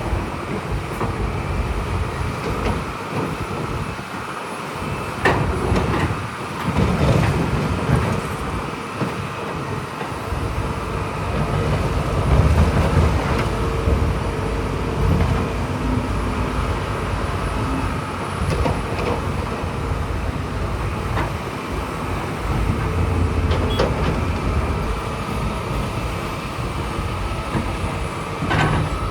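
Crawler bulldozer at work: its diesel engine runs with a low rumble that swells and eases, under the clank of its steel tracks, with a few sharp knocks.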